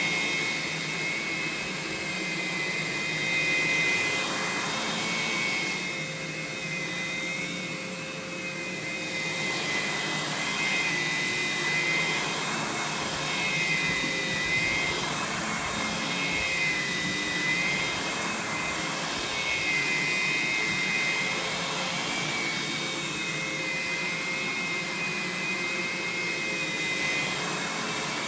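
Aerus Lux Guardian upright vacuum running steadily: a rushing airflow with a high motor whine that wavers up and down in pitch every few seconds.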